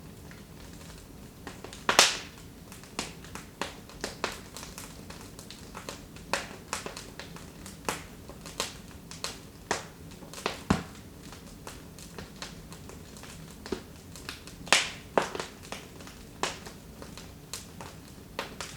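Wood fire in a fireplace crackling, with irregular sharp pops and snaps, a few louder ones about two, eleven and fifteen seconds in, over a low steady hiss of the burning fire.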